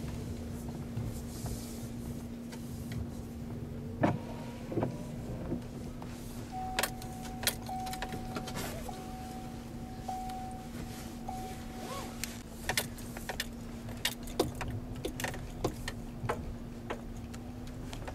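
Car cabin noise: a steady low hum runs throughout, with a held beeping tone that turns on and off for several seconds near the middle, and scattered clicks and knocks.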